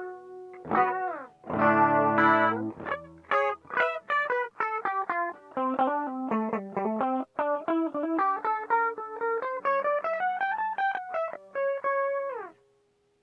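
Electric guitar played through a TC Electronic Flashback delay pedal. A ringing chord with a bend about a second in, a strummed chord, then a quick run of single notes that falls and climbs again before it stops near the end.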